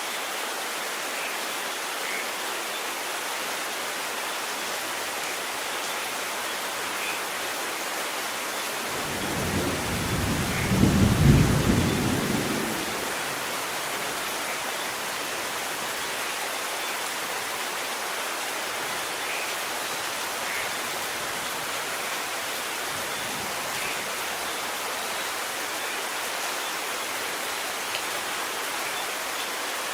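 Steady rain falling, with a single roll of thunder that builds about nine seconds in, peaks a couple of seconds later and rumbles away.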